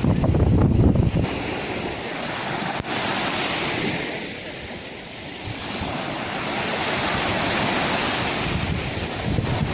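Sea waves washing on the shore in a steady hiss that ebbs around the middle and builds again. In the first second there is a low rumble of wind buffeting the microphone.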